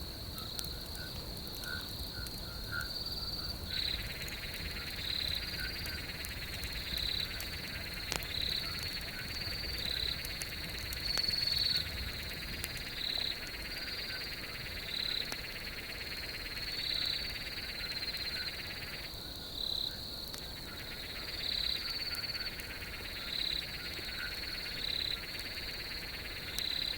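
Night-time insect chorus: a steady high trill with brighter pulsing calls about once a second, over a lower buzzing layer. The buzzing comes in a few seconds in and drops out briefly about two-thirds of the way through. Shorter calls sound lower down.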